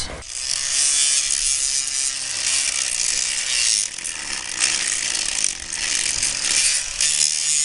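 Handheld power grinder grinding the paint off a metal box ahead of welding: a steady, high hiss of abrasive on metal over a faint motor hum, easing briefly about four seconds in.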